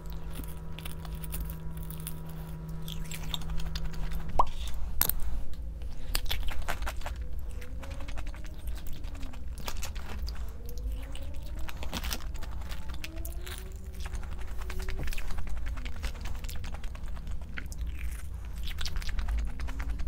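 Food being chewed and crunched close to the microphone, with scattered small clicks. A steady electrical hum runs for the first four seconds or so and stops abruptly with a click.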